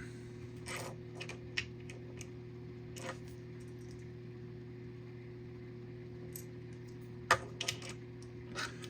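A few scattered light clicks and taps of small die-cast toy cars being handled and set down, over a steady low hum.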